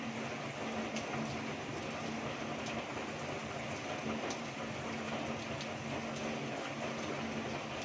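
Heavy rain falling steadily, with a few sharper drop ticks now and then.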